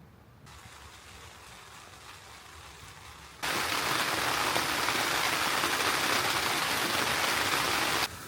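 Heavy rain pouring down, faint at first, then much louder from about three and a half seconds in, before cutting off suddenly near the end.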